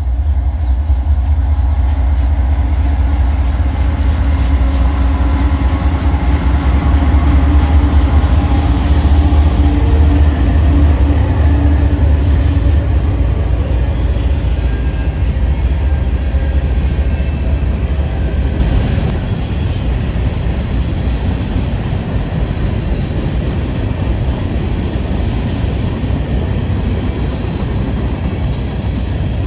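Freight train passing close by: a diesel locomotive's deep engine rumble, loudest about a third of the way in, gives way to the steady run of steel wheels on rail as the cars roll past.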